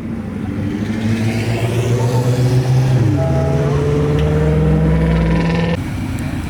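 A car's engine running hard as the car pulls away, with its level building over the first couple of seconds and its pitch creeping up. The sound cuts off suddenly near the end.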